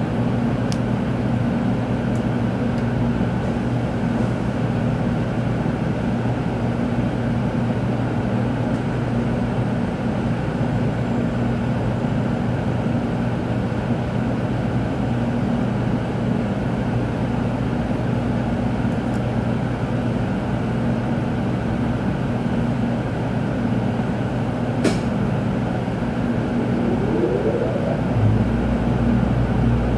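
Interior noise of a Shinkansen car heard from a passenger seat: a steady hum and rumble, with a single click about 25 seconds in and a short rising whine a couple of seconds later.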